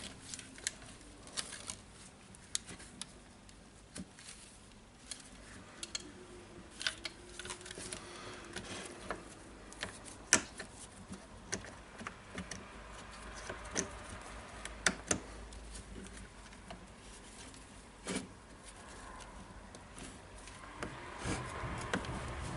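Irregular small clicks and light taps of hands handling wires and plastic housing parts while reassembling a cordless circular saw.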